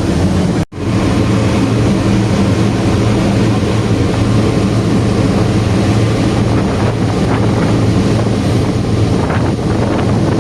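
A ferry's engine drones steadily, with wind buffeting the microphone and the wash of water alongside. The sound drops out for an instant a little under a second in.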